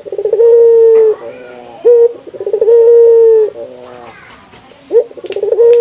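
Puter (Barbary dove) cooing in repeated phrases: a short upward note, then a long, steady, loud coo, followed by lower rolling notes. About two and a half phrases are heard.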